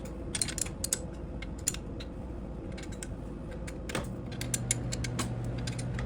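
Scattered clicks and light metal clinks of hand tools and engine parts being handled during engine reassembly. A steady low hum starts about four seconds in.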